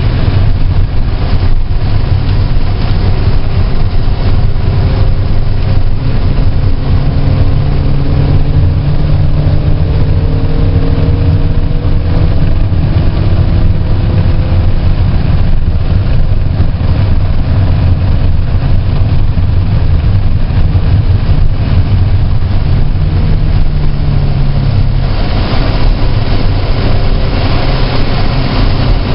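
A car engine running hard under a loud, steady low rumble and noise. Its note climbs slowly in pitch through the middle of the stretch and again for a few seconds later on.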